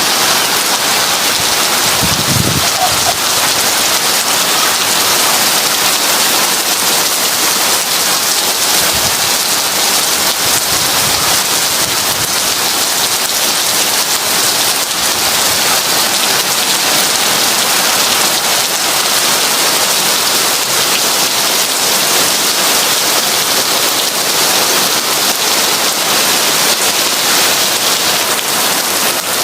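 Heavy rain falling on a window and roof, a steady dense hiss, with a brief low rumble about two seconds in.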